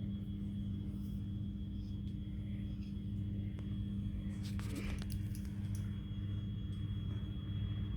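A steady low hum and rumble of a washing machine spinning, carried through the walls of the flat, which the recordist takes for a neighbour's machine. A few faint clicks come about four and a half seconds in.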